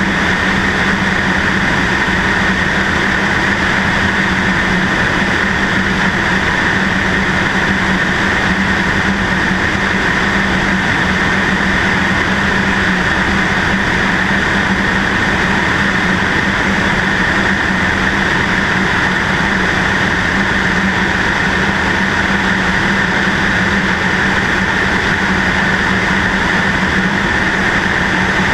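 Cessna 152's four-cylinder Lycoming engine and propeller running at a steady, unchanging speed, heard through a wing-mounted camera housing with a constant rush of airflow noise.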